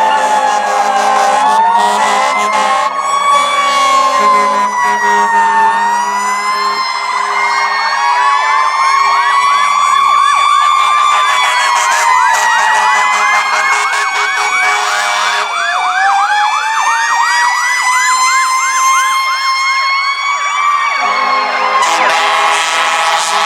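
Fire truck sirens sounding together: an electronic wail rising and falling slowly, every four to five seconds, with a fast yelp sweeping over it through the middle stretch. A steady low tone runs beneath at the start and again near the end.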